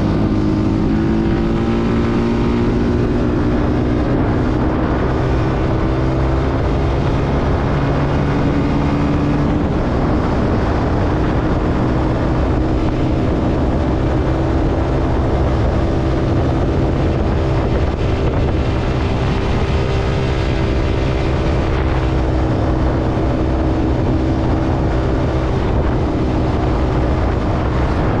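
Zontes C125 125 cc motorcycle engine running under way, its pitch rising over the first couple of seconds and then holding fairly steady.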